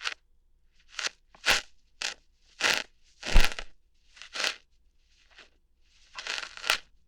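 ASMR ear-hair plucking sounds made close to the microphone: about eight short crunchy, tearing snaps at uneven intervals. One a little past halfway is louder, with a low thump.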